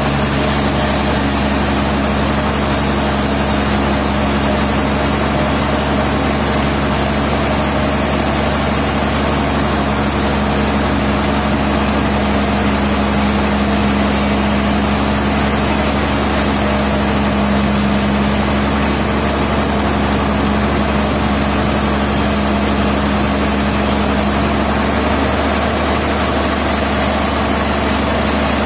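Sawmill engine running steadily at an even speed, a constant hum with no change in pitch or loudness.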